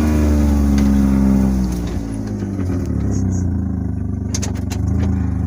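Utility vehicle engine running; it drops in speed about two seconds in, runs lower for a while, then picks up again near the end, with a few light clicks or rattles shortly before.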